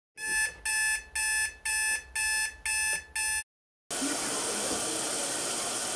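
Electronic alarm clock beeping, seven evenly spaced beeps at about two a second, then a steady hiss starting about four seconds in.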